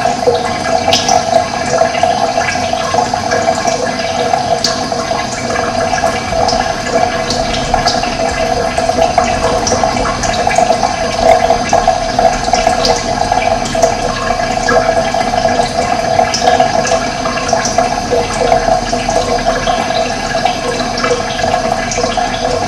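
Running water flowing steadily with a gurgling wash, and short high bird chirps scattered over it.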